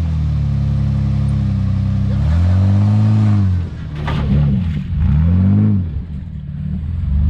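Off-road vehicle engine holding a steady speed, then revved up and back down several times in quick succession, with a sharp knock about four seconds in.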